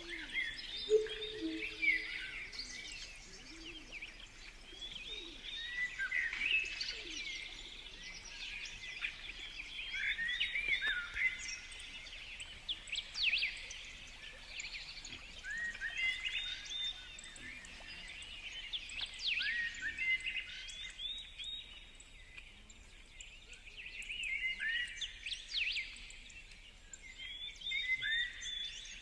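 Wild birds singing and chirping: short phrases of sweet notes and quick trills that repeat every few seconds, with a few brief low calls near the start.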